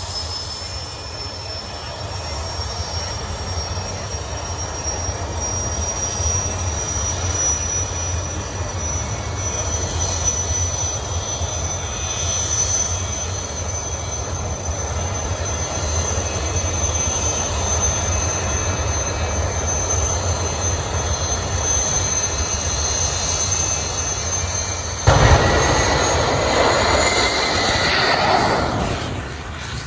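Jet car's turbine engine running with a steady high whine that creeps slowly upward in pitch over a low rumble. About 25 seconds in it suddenly gets much louder with a rough blast, then fades away near the end.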